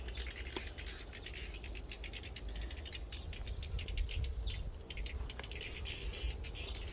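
Small birds chirping: short, high cheeps repeated irregularly, several close together.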